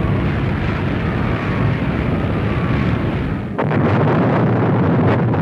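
Aircraft engines drone under the whistle of a falling bomb, which drops slowly in pitch. About three and a half seconds in, a sudden explosion breaks in and its rumble stays loud.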